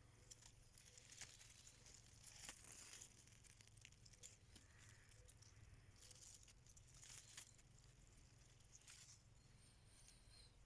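Near silence with faint, scattered rustling and crackling, a few soft clicks among them.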